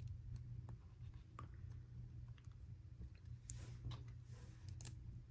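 Faint, scattered clicks of small Lego plastic pieces being handled and pressed together, over a low steady hum.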